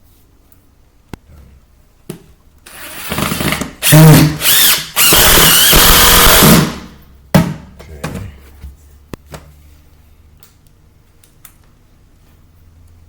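Power drill with a Phillips bit driving at a stuck screw, run in a few short bursts and then one steady run of about two seconds, with a brief squeal partway through. A few light clicks and knocks come before and after.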